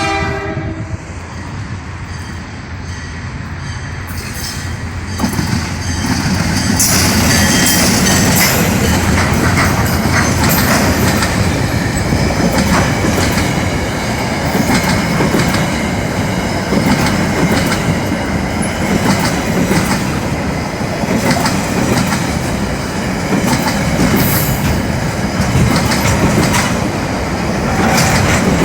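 A diesel-hauled container freight train passing close by. Its horn ends about a second in, then the train grows louder and rolls past steadily, the wheels clacking over the rail joints.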